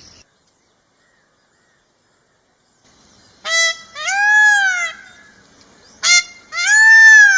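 Indian peafowl (peacock) calling twice, about three and a half seconds in and again near the end: each call is a short note followed by a longer, loud, arching wail.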